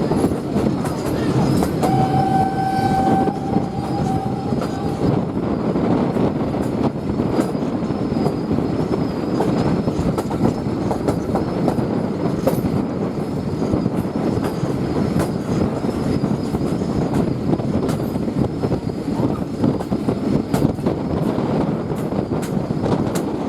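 Train hauled by the Ty42 steam locomotive running along the line: a steady rumble of wheels on rails with many small knocks. About two seconds in, the locomotive's whistle sounds one long note lasting about three seconds.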